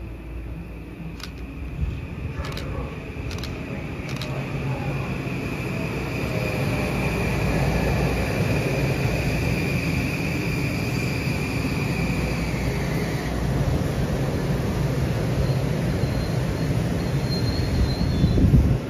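M8 electric multiple-unit train rolling slowly into the station: a low rumble of wheels and running gear grows louder. A steady high whine fades out about two-thirds of the way through, and a brief high wheel squeal comes near the end.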